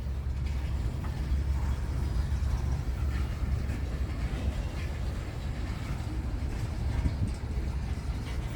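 Freight train cars rolling past, a steady low rumble of wheels on rail.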